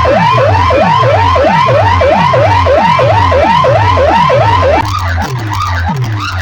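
Siren-like effect in a DJ remix blasted through a large outdoor sound system: a wailing pitch sweep repeats about three times a second over a steady heavy bass. About five seconds in it drops in level and breaks into a looser pattern.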